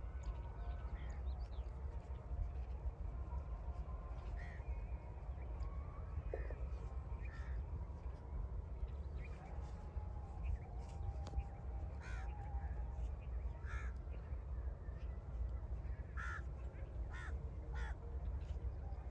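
Birds cawing in short harsh calls every few seconds, over a steady low rumble.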